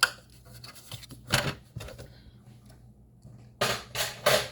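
Cardstock being scored and handled on a scoring board: a few short scraping and rustling strokes, three of them close together near the end.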